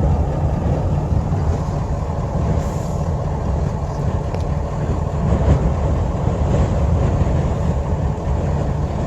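Steady low rumble heard from inside a car, with a faint hiss above it and no clear events.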